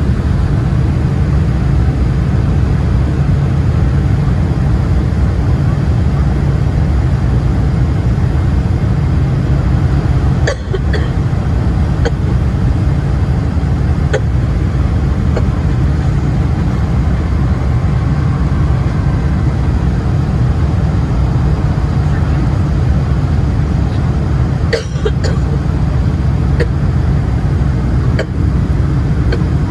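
Steady deep roar of a Qantas Boeing 747-400ER airliner in flight, heard inside the passenger cabin: engine and airflow noise with a few sharp clicks.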